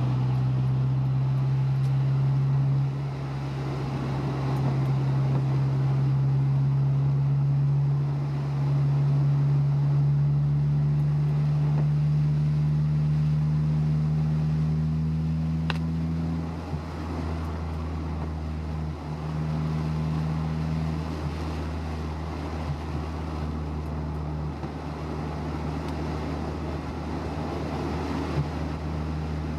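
Honda S2000's four-cylinder engine and road noise heard from inside the car while cruising; the engine's steady hum shifts in pitch a few times, with a single faint tick about halfway through.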